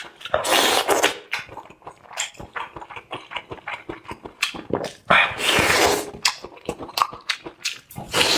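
Close-miked eating sounds: wet chewing with many small crackling clicks, and two long slurps, one about half a second in and one about five seconds in.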